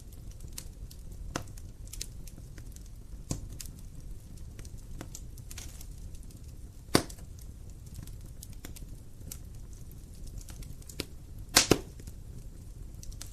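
Wood fire in a fireplace crackling, with a low steady rumble of the flames and scattered sharp pops from the burning logs. The loudest pops come about seven seconds in and as a quick double pop near the end.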